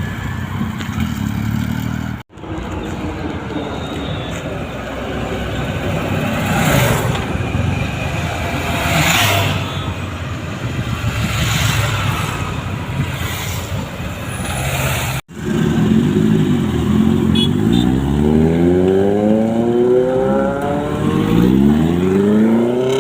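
Road traffic with several vehicles swelling past, then, about two-thirds in, motorcycle engines revving up and down again and again. The sound drops out abruptly twice where the footage is cut.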